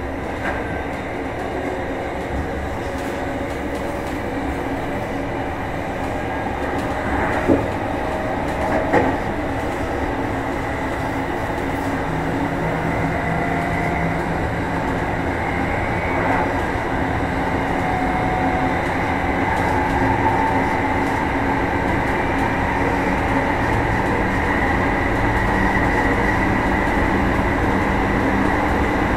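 Meitetsu 1000 series electric train running, heard from inside motor car Mo 1066: wheel and rail rumble with the traction motors' whine, which rises slowly in pitch and loudness as the train gains speed. Two short knocks come about a third of the way in.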